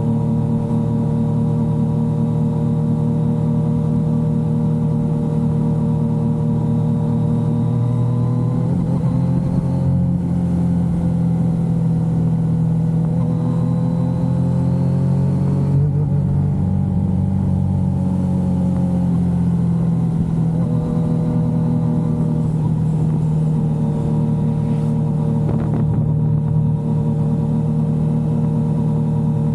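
Yamaha XSR900's inline three-cylinder engine running steadily while riding, its note shifting with throttle and gear changes about a third and half of the way through, then settling back to a steady cruise.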